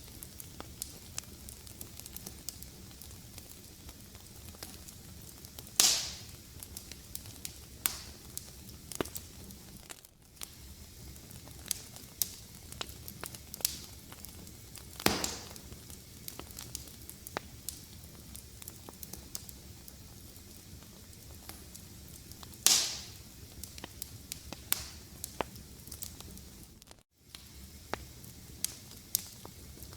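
Fireplace fire crackling steadily, with frequent small sharp clicks and three louder pops about six, fifteen and twenty-three seconds in. The sound cuts out for an instant twice.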